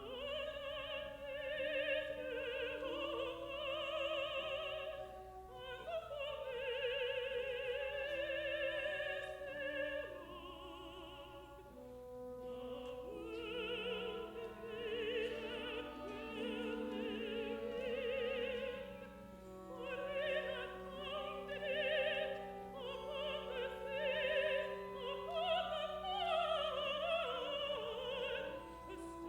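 A contralto singing long, wavering held notes with vibrato over a full symphony orchestra.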